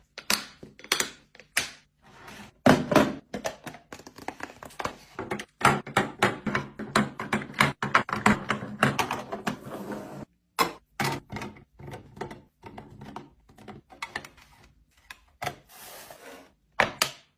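Containers and jars being handled and set down on shelves while a refrigerator is organized: an irregular run of knocks, taps and thunks, densest in the middle, with a short pause about ten seconds in.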